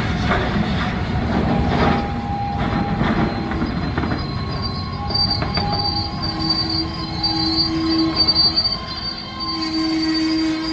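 Freight train rolling through the crossing: the cars rumble and clatter, and from about halfway the steel wheels squeal against the rails in several steady high tones.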